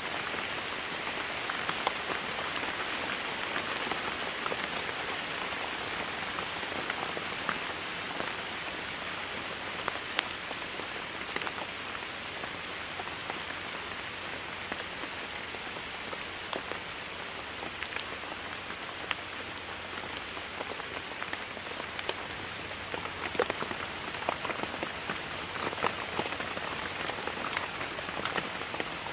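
Steady rainfall, a continuous hiss with many sharp drips and taps of individual drops landing on a surface.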